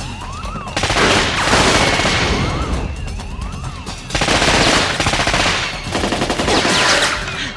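Two long bursts of automatic gunfire, the first starting about a second in and the second about four seconds in, over a repeating warbling alarm.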